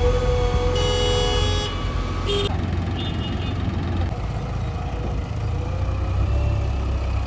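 Heavy machinery diesel engines running steadily with a low rumble, and a vehicle horn sounding for about a second near the start, followed by a short toot.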